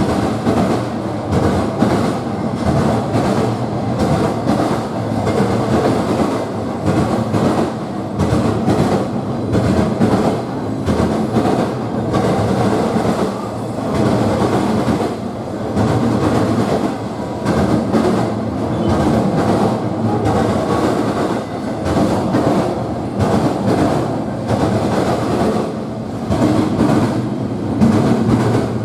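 A train rolling steadily past at close range: a continuous rumble of railroad cars with the clickety-clack of wheels over the rail joints.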